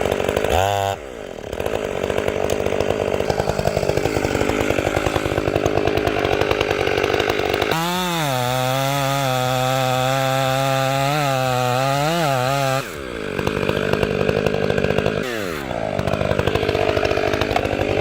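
Chainsaw running at high throttle and cutting into a tree, with the engine note shifting as the load changes. The pitch holds steady through the middle, then sags and recovers twice in the last few seconds.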